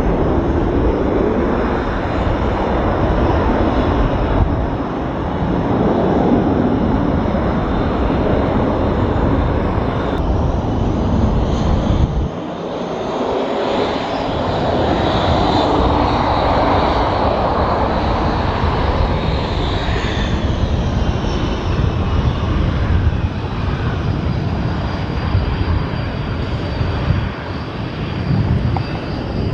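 Military jet engine noise, loud and continuous, with a low rumble throughout and a high whine that rises and then falls around the middle.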